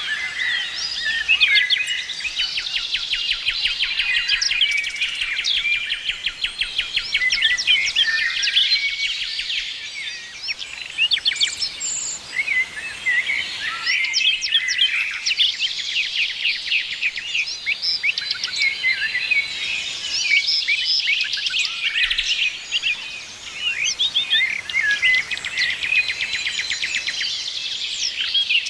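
A chorus of songbirds singing and chirping together, dense overlapping trills and rapid note series.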